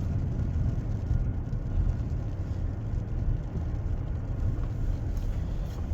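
Steady low rumble of a car driving, heard from inside the cabin: engine and tyre noise with no sudden events.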